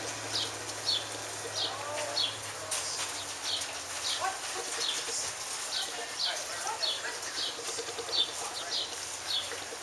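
A small bird chirping over and over, one short falling chirp about every two-thirds of a second.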